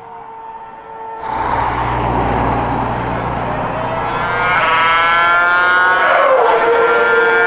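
Ferrari F2008 Formula One car's 2.4-litre V8 at high revs, growing suddenly louder about a second in, then rising in pitch. Its pitch drops sharply past the middle and climbs again.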